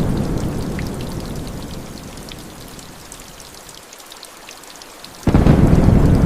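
Rain falling with scattered drop ticks over rolling thunder. The deep rumble fades away over about three seconds to a lull, then a new loud rumble breaks in suddenly about five seconds in.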